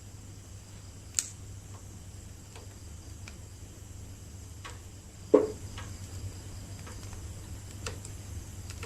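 Wood bonfire crackling: scattered sharp pops and snaps, with a louder pop about a second in and the loudest one about five seconds in.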